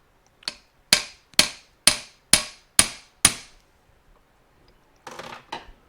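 Hammer tapping a driver to seat a new fork oil seal in a Suzuki TS250 fork leg: one light tap, then six sharp strikes about half a second apart, each ringing briefly. A softer short sound follows near the end.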